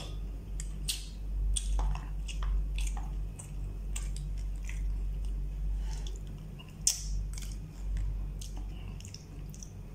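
A person chewing a mouthful of rice, with scattered light clicks of a plastic spoon against a plastic sauce cup and food tray; one sharper click about seven seconds in. A steady low hum runs underneath.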